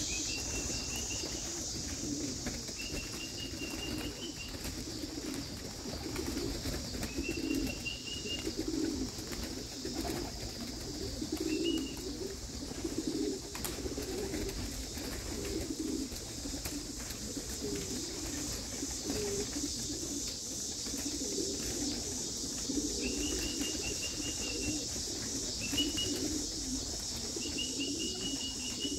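Pigeons cooing, a low rolling coo repeated over and over, with short high whistled notes every few seconds and a steady high insect chirring behind.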